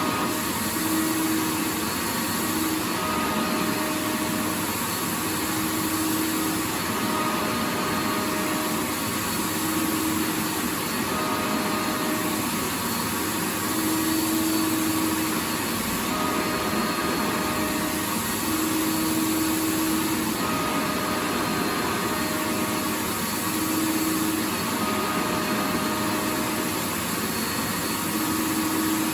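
Vacuum cleaner running steadily: an even rushing noise with a motor hum that wavers in and out every second or two.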